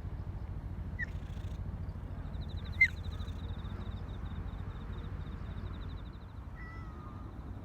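Cats giving short cries over a steady low rumble: a brief faint cry about a second in, a sharper, louder one about three seconds in, and the start of a meow near the end. A fast, faint high ticking runs through the middle.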